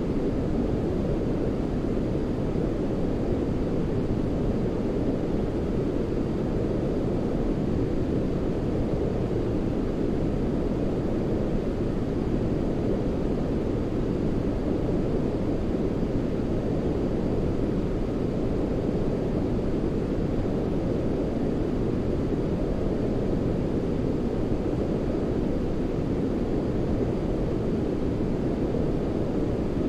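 Steady, unchanging sleep noise for soothing a baby, deep rather than hissy, with most of its weight in the bass, like brown noise.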